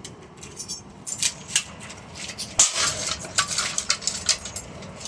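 Hard ceiling-fan parts clinking and clattering as they are handled: a run of sharp clicks and rattles, busiest about halfway through.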